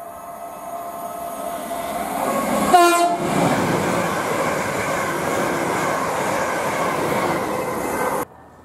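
Electric passenger train approaching and sounding a short horn blast about three seconds in, then running past close by at speed with a loud, steady rush of wheel and rail noise. The sound cuts off suddenly near the end.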